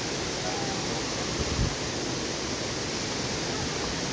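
Steady rushing hiss of a nearby waterfall, with one short low thump about one and a half seconds in.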